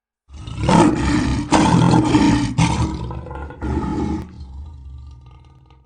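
A lion roaring: a series of about four loud, coarse roars that fade away into a trailing rumble near the end.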